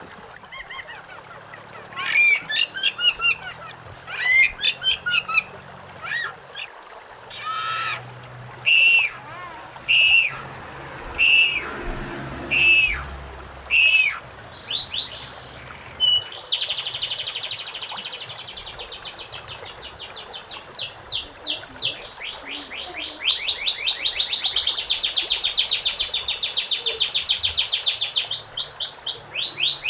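Wild songbirds singing over faint running water. The first half holds varied whistled phrases, including a run of single falling notes about one every second and a half. About halfway through, a long, very rapid trill sets in and grows louder near the end.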